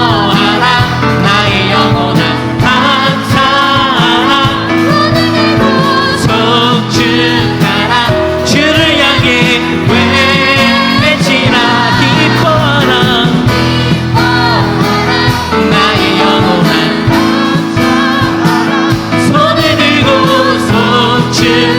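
Contemporary worship band music: steady bass and chords with a sung or lead melody over it, played as an interlude between songs.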